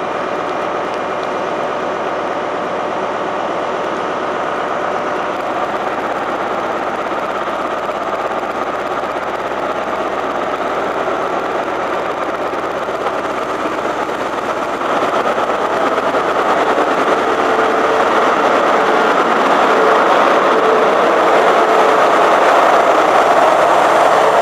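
Diesel engine of a Class 43 HST power car working as the train departs, a steady running sound that grows gradually louder and steps up clearly about two-thirds of the way through as power builds.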